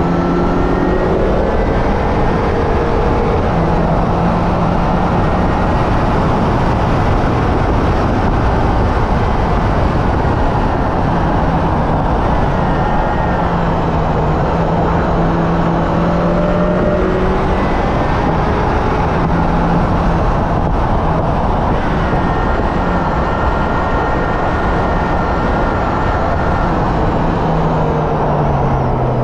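Hyundai Elantra N's turbocharged four-cylinder engine running hard under lapping, its pitch rising and falling repeatedly with throttle and gear changes, over heavy wind and road noise.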